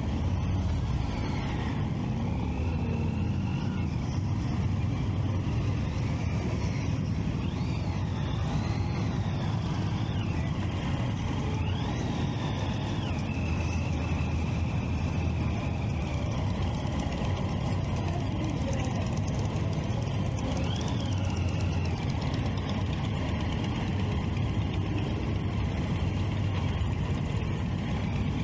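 Motorcycle engines in traffic: a steady low rumble throughout, with engines revving up and down several times.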